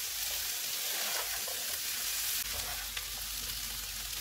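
Potato and pea samosa filling sizzling in oil in a nonstick pan, stirred with a spatula that scrapes through the mix. The sizzle is a steady hiss.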